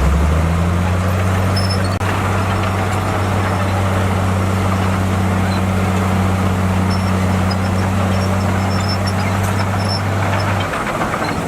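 Komatsu bulldozer's diesel engine running steadily under load with a deep, even drone; its note shifts near the end.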